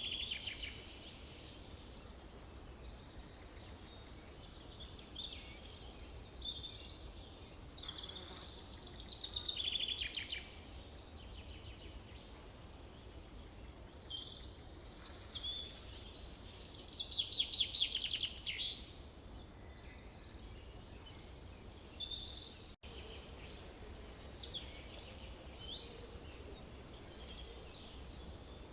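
Forest birds singing: overlapping chirps, whistles and short phrases, over a steady low background rumble. The loudest are two rapid trills, one about nine seconds in and one about seventeen seconds in.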